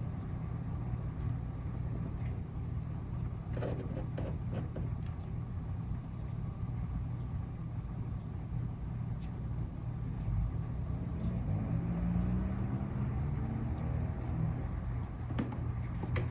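Low, steady engine rumble from a running vehicle, with a few light clicks about four seconds in and an engine note that rises in pitch a little past the middle.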